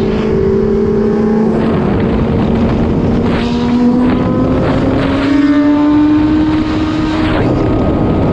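Sport motorcycle engine running hard at speed, its note climbing slowly and steadily in pitch as the bike accelerates, with wind rushing over the microphone.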